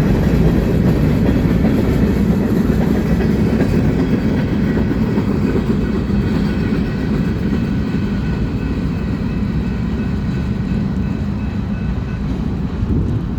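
Freight cars of a manifest train rolling past, a steady rumble of wheels on rail that slowly fades over the last several seconds.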